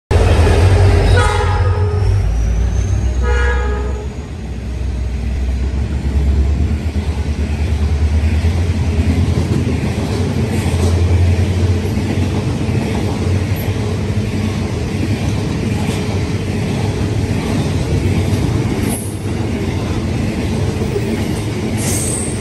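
Diesel locomotive horn sounding two short blasts about two seconds apart near the start. After that comes the steady low rumble of a long train rolling past at speed.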